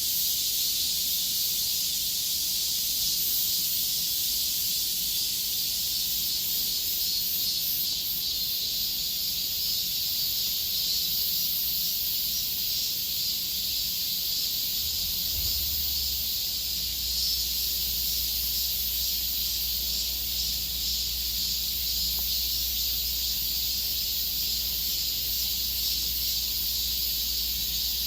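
A steady, high-pitched chorus of insects trilling, an unbroken hiss-like buzz with no pauses.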